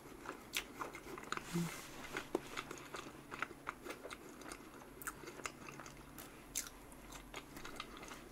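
A person chewing a mouthful of chocolate cherry whipped-cream cake: faint, irregular little mouth clicks and smacks.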